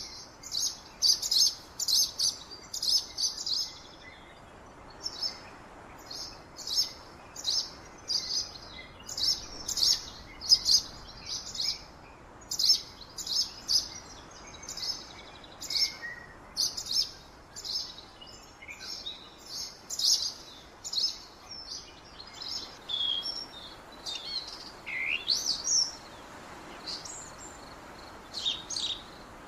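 Wild birds chirping in the forest: repeated short, high chirps in quick runs, with a few sliding whistled notes near the end, over a faint steady hiss.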